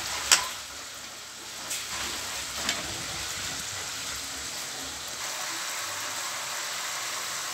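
Pork steak slices sizzling as they fry in a wok, a steady frying hiss throughout. A metal ladle knocks against the wok three times in the first three seconds, the first knock the sharpest.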